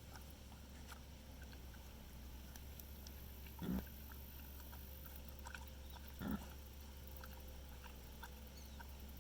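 An animal gives two short grunts, about two and a half seconds apart, over a steady low hum.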